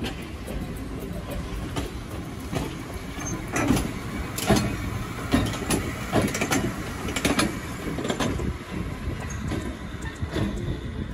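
E34 electric locomotive and old passenger coaches rolling slowly past at close range: a low rumble with irregular metallic knocks and clanks from the wheels passing over rail joints and points, busiest in the middle.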